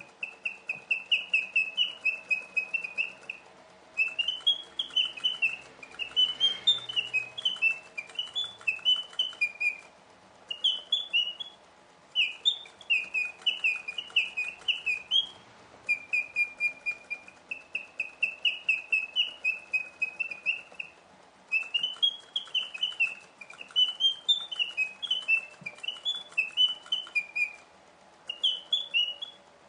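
Two mechanical singing birds of a 1950s German Eschle automaton chirping, their bellows-driven whistles giving phrases of quick chirps that rise and fall in pitch. Each phrase is a few seconds long, with short pauses between them, as the two birds answer each other.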